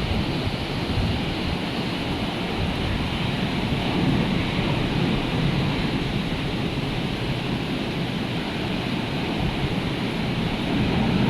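Rough surf from a hurricane-stirred sea, a steady rush of breaking waves, with wind gusting on the microphone.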